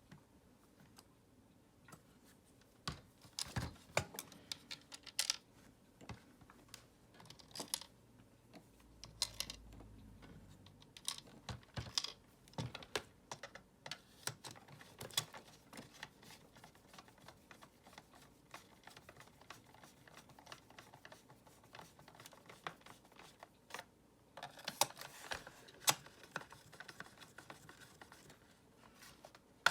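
Irregular clicks and taps of hard plastic parts of a Dyson vacuum cleaner being handled and fitted together by hand, with a denser run of clicking about twenty-five seconds in.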